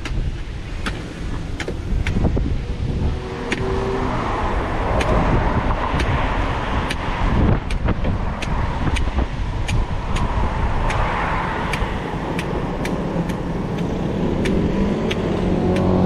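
Machete strikes chopping open a fresh green coconut, sharp blows about one to two a second, over wind on the microphone and road traffic.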